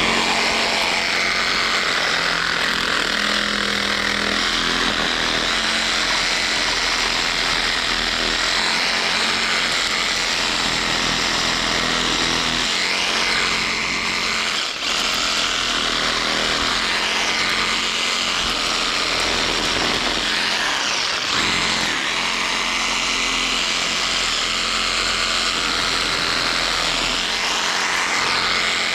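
Skil cordless reciprocating saw running at full speed, cutting through tree branches. It starts abruptly and runs steadily, with one brief dip about halfway through.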